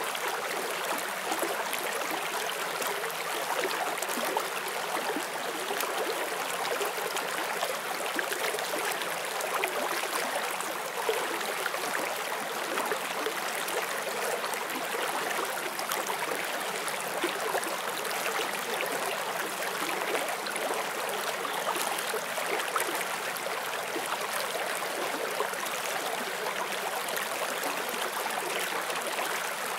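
Forest stream flowing over rocks: a steady, even rush of water with a fine bubbling texture.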